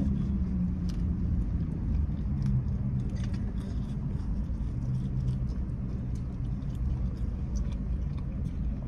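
Low steady rumble of a parked car's idling engine heard inside the cabin, with faint scattered crinkles of a foil burrito wrapper and chewing.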